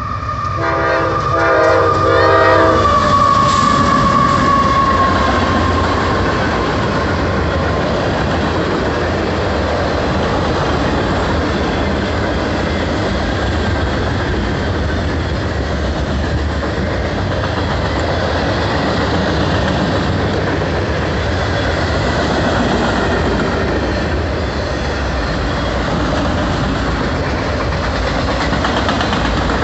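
A CSX freight train led by two GE diesel locomotives, a CW44AH and a CW44AC, sounds its horn in short blasts in the first couple of seconds as it approaches. It then passes at speed, and the long line of freight cars rolls by with a steady loud rumble and wheel clatter on the rails.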